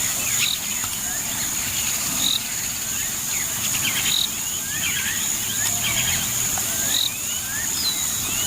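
Countryside ambience: a steady high-pitched insect buzz, with many short chirps and whistles from birds and a short high note repeating every couple of seconds.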